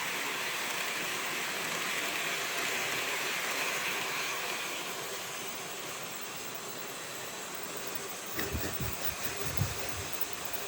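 Märklin HO model train running on its track, a steady rolling hiss that eases after about five seconds. A few low thumps come between about eight and a half and ten seconds in.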